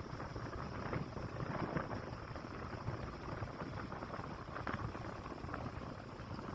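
Steady rumble of a motorcycle being ridden, with wind on the microphone.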